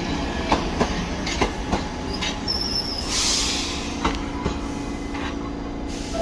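New York City subway train running along the track: a steady rumble with wheels clacking over rail joints several times in the first two seconds, a brief high wheel squeal, then a short hiss about three seconds in.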